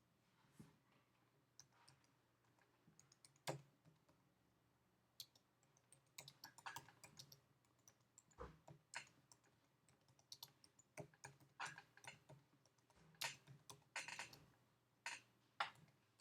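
Faint typing on a computer keyboard: scattered single keystrokes at first, then quicker runs of key clicks from about six seconds in.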